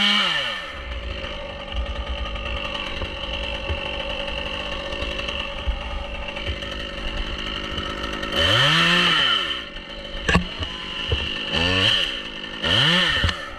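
Chainsaw running at idle, revved up and straight back down four times: near the start, about eight and a half seconds in, and twice close together near the end. A single sharp click about ten seconds in.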